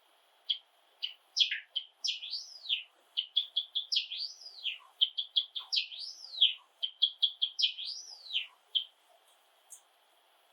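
Java sparrow singing. It starts with a few sharp clicking notes, then a quick run of short notes broken by four arched whistled glides that rise and fall. The song stops about nine seconds in.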